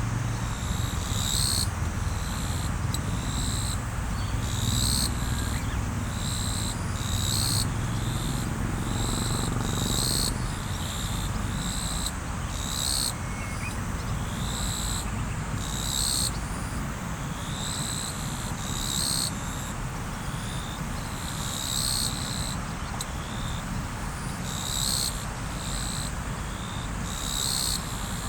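A river flowing steadily, with a short, high chirping call repeating about every second and a half over the water.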